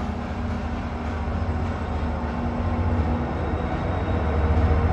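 Passenger train running by the tracks: a steady low rumble with a few held tones over it, getting louder toward the end.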